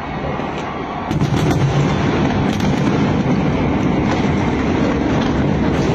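Fireworks display: many aerial shell bursts merging into a continuous rumble that grows louder about a second in, with sharp cracks over it.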